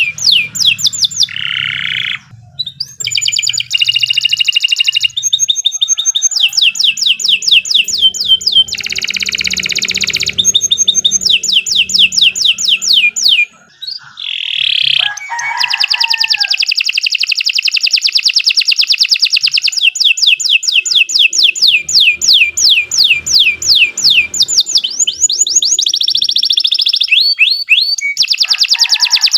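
Domestic canary singing a long, continuous song of fast repeated trills and rolls, each phrase a rapid string of downward-sweeping notes, with two short breaks.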